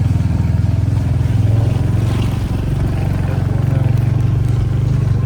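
Motorcycle engine running steadily while riding, a loud, low, even drone.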